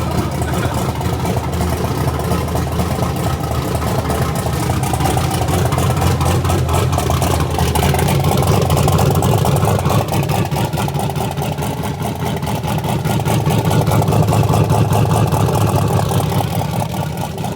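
Car engine running loudly and steadily at idle, with small swells in loudness.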